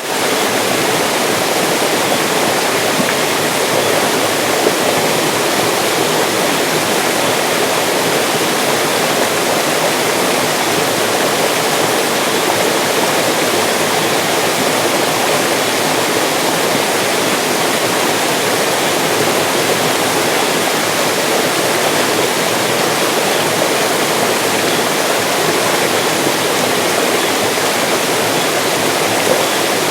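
Mountain stream rushing and splashing over rocks, a steady, full water noise without pause.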